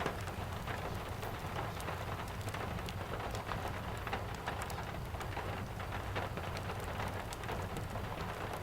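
Steady rain falling, with many small, sharp crackles scattered throughout from a fireplace.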